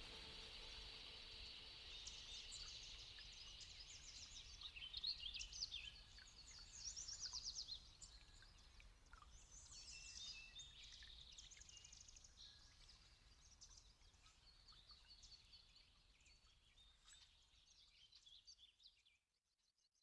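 Faint birdsong: assorted chirps and quick trills, fading gradually and cutting off to silence near the end.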